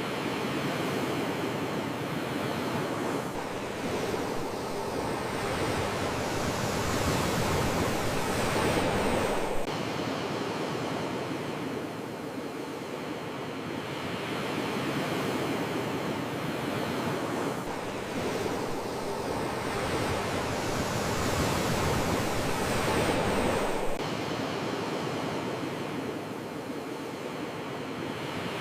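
Sea waves washing on the shore, the surf swelling and easing in cycles about fourteen seconds long, each swell breaking off suddenly.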